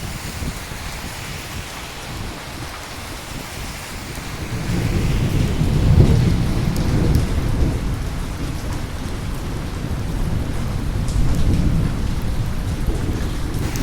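Steady rain falling, with a long roll of thunder that builds about four seconds in, peaks a second or so later and rumbles on to the end.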